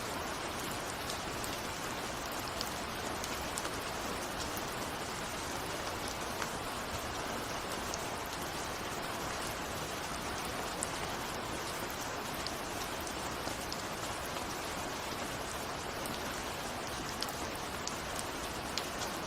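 Steady rain with many small drops ticking on a window.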